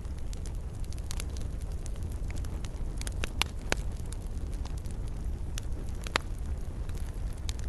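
Wood fire in a fireplace crackling: a steady low rumble with irregular sharp pops scattered throughout, a few louder ones about halfway and again past the middle.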